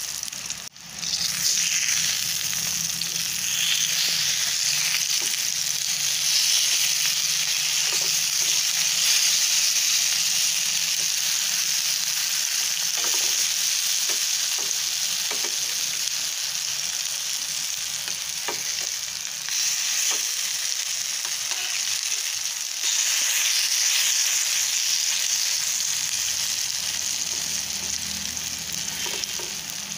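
Masala-coated eggplant (brinjal) slices sizzling steadily in shallow oil in a nonstick frying pan, with a few light clicks of a metal spatula as the slices are turned to fry their second side.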